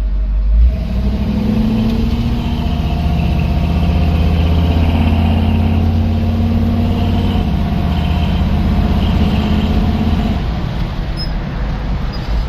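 Old Ford pickup's engine running steadily under way, easing off about ten seconds in.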